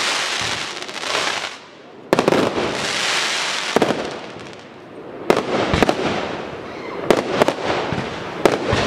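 Aerial fireworks display: several sharp bangs of shells bursting, most of them in the second half, over a steady hiss of burning stars and comet effects. There is a brief lull about a second and a half in.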